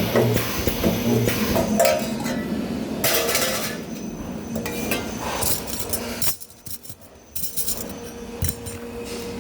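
Sheet-metal parts clinking and clanking at a spot-welding station, with a short hiss about three seconds in and a steady hum underneath.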